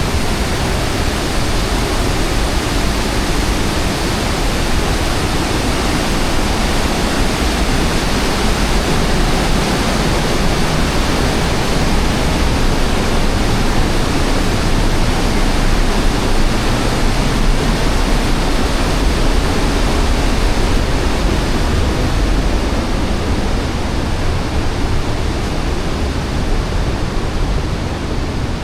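Waterfall rushing, a loud steady roar of falling water with no breaks.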